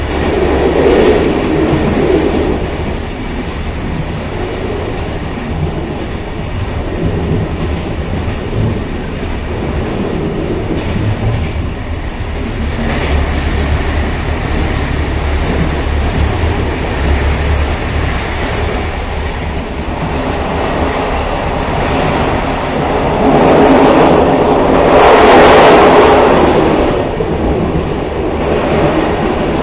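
Railcar running on the track: a continuous rumble with a steady low drone, growing louder for a few seconds near the end.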